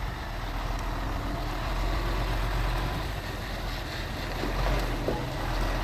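Heavy diesel engine of earthmoving machinery running steadily, deep and even.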